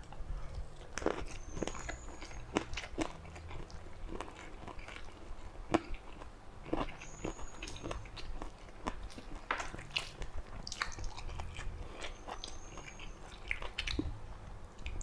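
Close-miked chewing of a mouthful of sticky rice and eel curry, with many short wet mouth clicks and smacks at uneven intervals.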